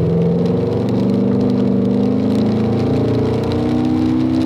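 Car engine accelerating under smoothly applied throttle, its pitch climbing steadily.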